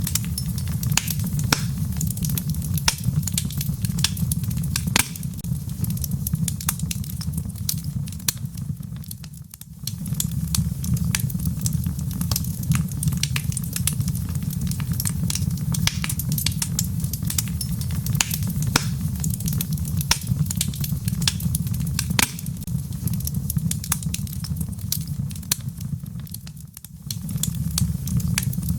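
Wood fire in a fireplace crackling, with frequent sharp snaps and pops over a steady low rumble. The whole sound briefly drops away twice, about ten seconds in and near the end.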